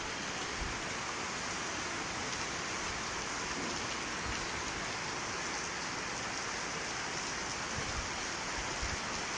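Heavy rain falling steadily, a constant hiss, with a few brief low bumps on the microphone.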